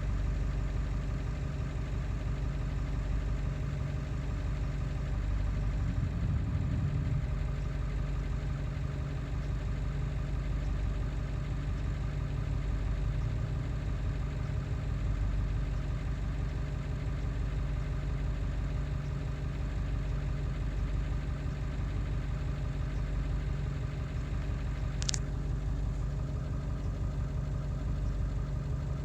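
Ford 7.3 L Power Stroke V8 turbo-diesel idling steadily, with a roughness that a newly replaced injection control pressure (ICP) sensor has not cured. A brief high chirp about 25 seconds in.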